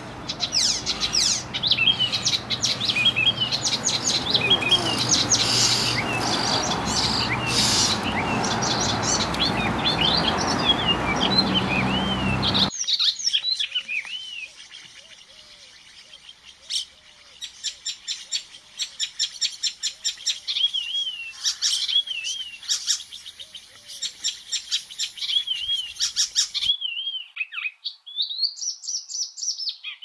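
Songbirds chirping. For about the first dozen seconds the chirping is dense and busy over a hiss of background noise, then it cuts suddenly to sparser, clearer chirps and short whistles.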